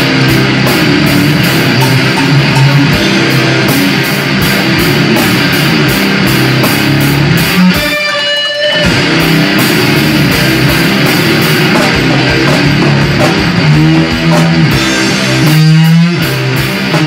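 Heavy, distorted electric guitar riffing over a drum kit with steady cymbal hits, played loud. Around eight seconds in, the low riff briefly drops out, leaving a few high ringing notes, then the band comes back in. Near the end there are sliding, bending guitar notes.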